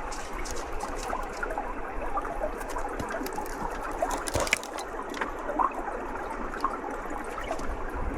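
Running water trickling and gurgling steadily, with many small bubbly blips and a few sharp clicks.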